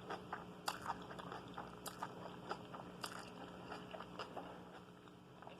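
Close-miked chewing of a mouthful of food: faint, irregular wet clicks and small crunches from the mouth, a few every second.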